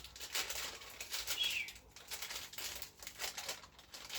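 Plastic parts bag rustling and crinkling, handled in short irregular strokes while being searched through.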